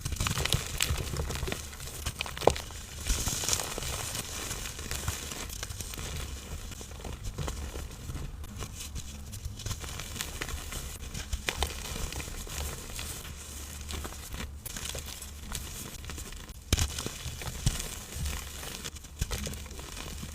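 A dry, powdery block crushed by hand for ASMR: continuous crunching and crackling as it crumbles, with a sharper snap about two seconds in and another near the end.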